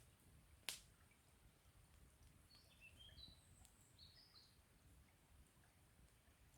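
Campfire wood crackling faintly, with one sharp pop about a second in. A bird calls a handful of short high chirps in the middle.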